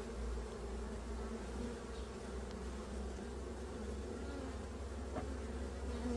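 Honey bees buzzing in a steady, continuous hum, with a low rumble underneath.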